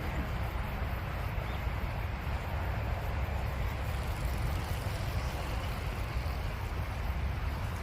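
Steady low rumble with an even hiss above it, with no distinct events.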